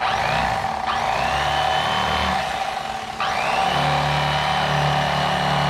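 Electric fillet knife running as it cuts through a fish, switching on abruptly with a steady motor whine. The whine sags and climbs back up about three seconds in.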